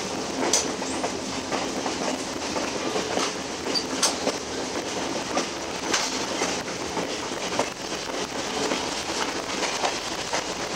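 Alaska Railroad passenger train running at speed, heard from an open car doorway: a steady rumble of wheels on the rails, with sharp clacks every second or two.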